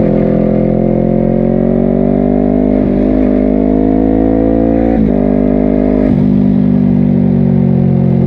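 Honda CBR250RR SP's parallel-twin engine through a Yoshimura exhaust, pulling hard with its pitch climbing steadily. The climb breaks sharply about three times, at quickshifter gear changes.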